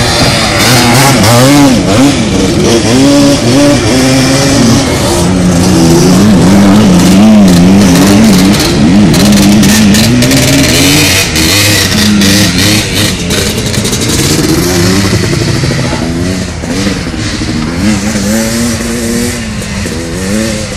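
Several off-road racing engines, ATVs and dirt bikes, revving hard as they accelerate away. Their pitches keep rising and falling and overlapping as riders work the throttle and shift, with sharp crackles throughout.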